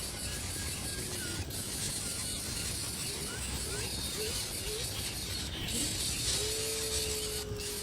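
Steady outdoor hiss with a few faint, short rising bird chirps, then a longer held call starting about six seconds in.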